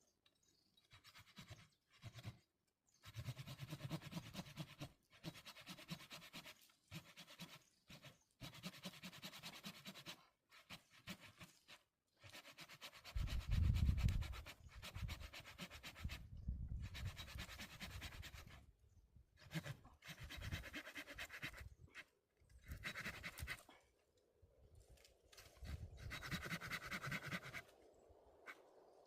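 Hand saw sawing in bouts of quick back-and-forth rasping strokes, broken by short pauses, with a heavier low thud-like stretch about halfway through.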